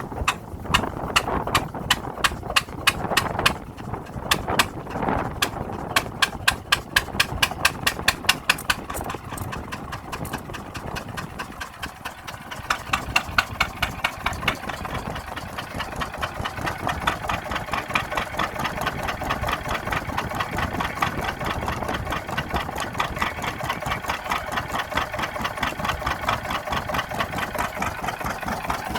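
Deutz stationary diesel engine starting: loud, sharp firing strokes at an uneven pace for the first several seconds, then settling into a steady, even running beat by about halfway through.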